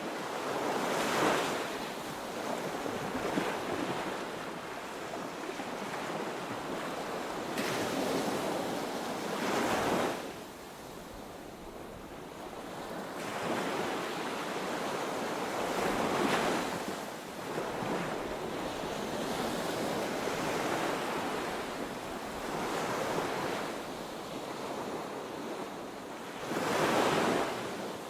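Ocean waves breaking on a beach and washing up the shore, a steady surf wash with several louder surges that swell and fade every few seconds, with some wind on the microphone.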